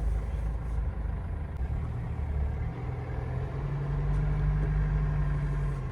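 GAZelle Next truck's engine and road noise heard inside the cab while driving: a continuous low hum that settles into a steady drone on one pitch about halfway through.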